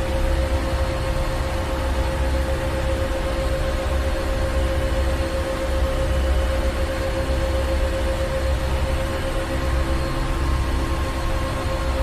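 Ship's engine room machinery running steadily: a deep engine rumble under a constant mid-pitched whine and an even hiss.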